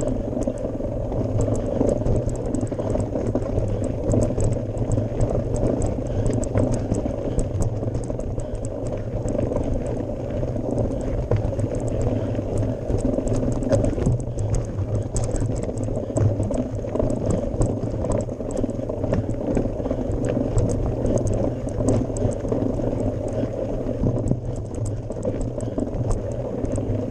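Mountain bike riding over a gravel forest road, heard from the bike: a steady rumble of tyres on gravel with many small crackles and rattles of stones and the bike throughout.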